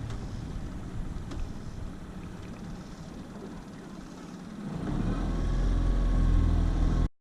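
Motorboat engine running with a steady low drone that grows much louder about five seconds in, then cuts off suddenly.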